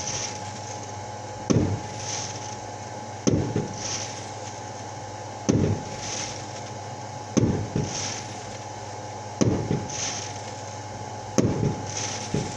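Fireworks going off: a sharp bang about every two seconds, each fading out, with short hissing bursts between them. A faint steady tone runs underneath.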